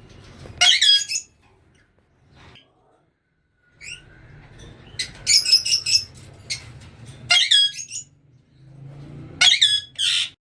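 Pet parrots squawking in four short shrill bursts of quickly repeated calls, over a low steady hum.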